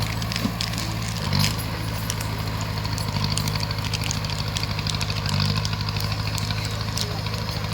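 Bulldozer's diesel engine running steadily, with scattered light clicks and clanks over it and a brief louder swell about a second and a half in.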